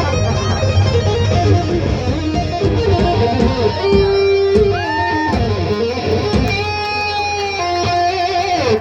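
Live ska band playing with guitar and bass under held and gliding lead notes. The music drops away suddenly right at the end.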